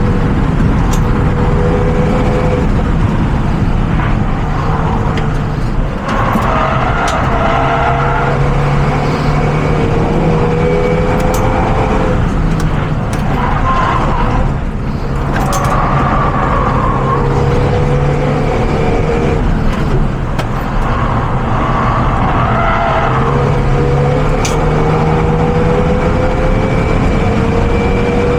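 Renault Mégane RS engine heard from inside the car, climbing steadily in pitch through the gears with several short breaks at the gear changes, over loud road and wind noise.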